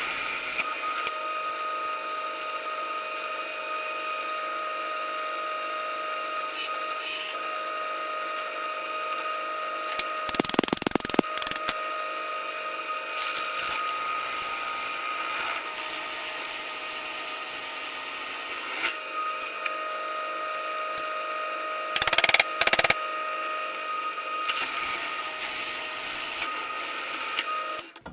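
Electric drill running steadily with a whine, boring holes through a dense wooden knife-handle scale; twice, about ten seconds in and again a little past twenty, it gets louder and rougher as the bit bites into the wood. The motor stops suddenly at the end.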